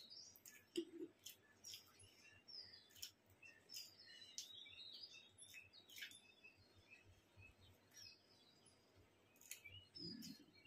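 Faint, quiet scene: small birds chirping in short falling notes, over scattered soft clicks and smacks of people eating rice and curry with their fingers.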